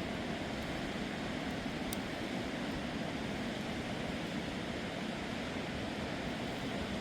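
Steady rushing of a fast, swollen river, an even, unbroken noise of water.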